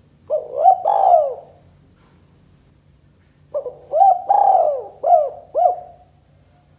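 Spotted dove (tekukur) cooing in its 'kuk 2' song: two phrases of low, rising-and-falling coo notes. The first phrase is short, near the start; the second, of about five notes, begins about three and a half seconds in.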